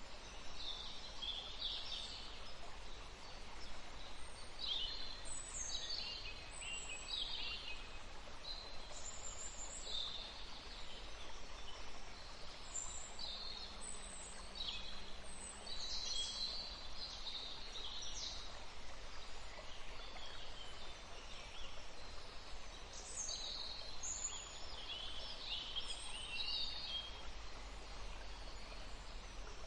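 Wild birds chirping, many short high chirps and calls coming thick and fast over a steady background hiss.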